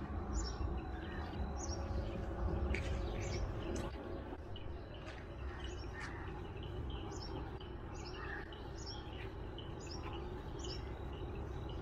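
Birds chirping: short high calls repeated about twice a second in runs, over a steady low rumble.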